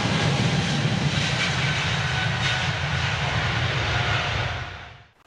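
Jet airliner engine noise: a loud, steady rush that fades out over the last second and drops away just before the end.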